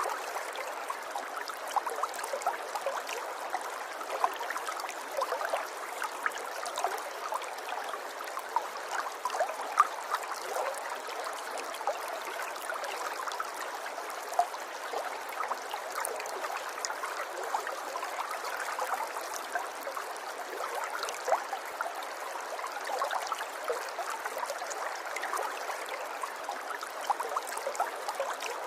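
River water flowing gently, a steady babble with many small splashes and gurgles.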